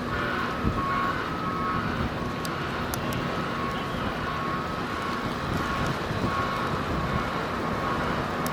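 A vehicle's reversing alarm beeps over and over on two alternating tones, over a steady rumble of truck engines and traffic.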